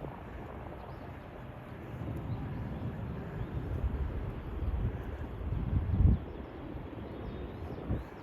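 Wind buffeting the microphone outdoors: a low, uneven rumble that swells and fades, with its strongest gust about six seconds in.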